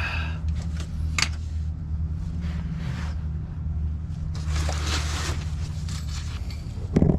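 Scraping and rustling of hands and tools being handled, with a sharp click about a second in, over a steady low hum.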